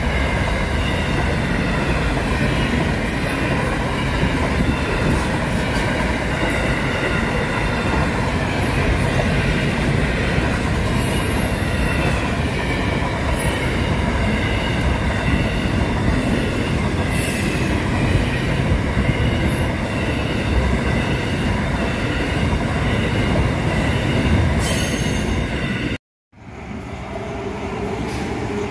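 Double-stacked container freight train passing close at speed: a steady loud roar of wheels on rail, with a faint high ringing tone and a few sharp clicks. Near the end the sound cuts out abruptly.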